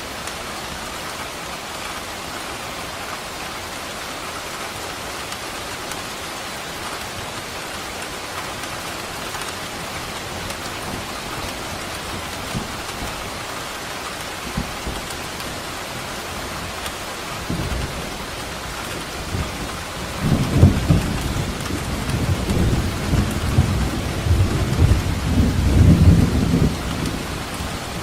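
Steady heavy rain, with a rolling thunder rumble that builds about two-thirds of the way in and is loudest near the end before easing off.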